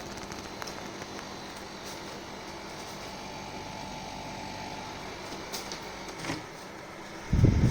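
Dehumidifier running steadily, an even hum of its fan and compressor with a faint steady tone in it. Just before the end a much louder rushing noise cuts in.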